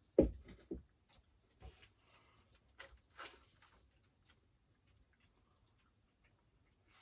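A dull thump, then a few scattered light knocks and clicks, as of things being handled and set down.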